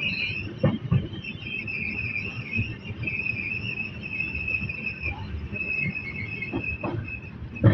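Moving express passenger train: a steady rumble of wheels on rail with a high whine, and the wheels knocking over rail joints in pairs, about a second in and again near the end.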